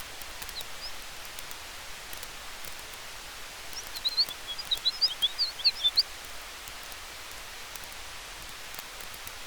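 Campfire crackling with small sharp pops over a steady hiss of wind through trees. About four seconds in comes a quick flurry of high chirps lasting around two seconds, the loudest sound here.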